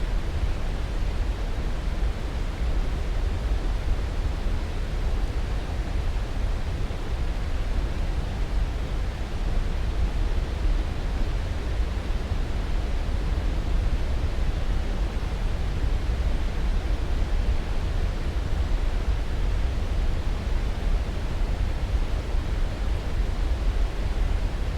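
Steady, even rushing noise from a white-noise sleep track, heavier in the low end than in the highs, with no change in level or character.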